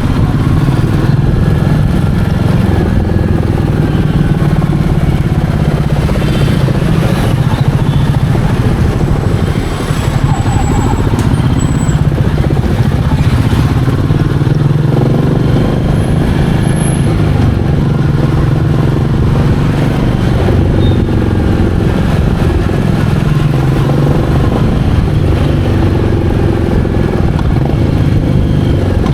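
Royal Enfield Meteor 350's 349 cc single-cylinder engine running steadily under way, with road noise. The engine sound drops briefly about ten seconds in.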